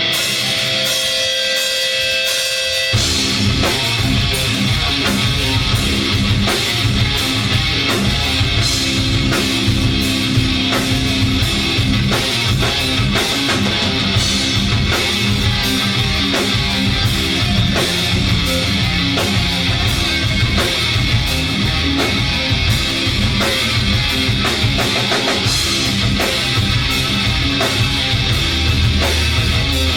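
Live rock band playing: a few held guitar notes alone, then drums and the full band come in about three seconds in and play on at a steady, driving pace.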